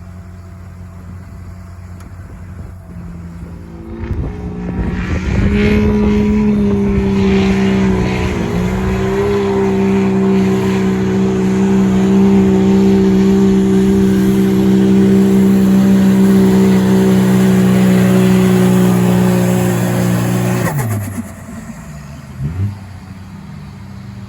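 Diesel pickup truck making a sled pull: the engine climbs to full power about four seconds in and holds a loud, steady run for some fifteen seconds, with one brief dip. It drops off abruptly near the end, followed by one short rev.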